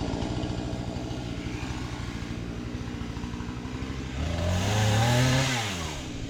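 Small two-stroke chainsaw engine, a Husqvarna 435, idling with a fast even putter, then revved up once about four seconds in and let fall back to idle.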